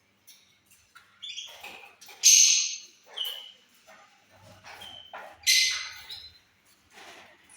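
Caged parrots squawking: short high calls, with two loud, harsh screeches about two and five and a half seconds in.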